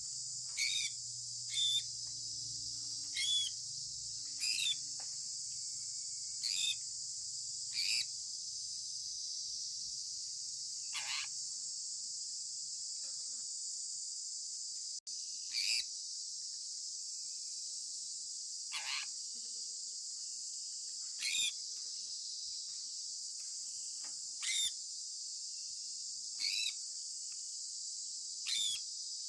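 Sun conure giving short chirps that slide downward in pitch, one every one to three seconds, over a steady high-pitched hiss. Two of the chirps, about a third and two thirds of the way in, are longer and slide lower.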